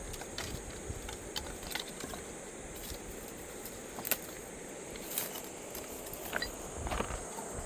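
A steady high insect trill, typical of crickets, with scattered sharp clicks and small knocks, the loudest about four, five and seven seconds in.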